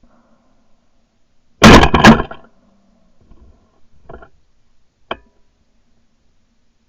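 Two shotgun shots in quick succession, about half a second apart, loud enough to clip, about a second and a half in; two fainter sharp knocks follow a few seconds later.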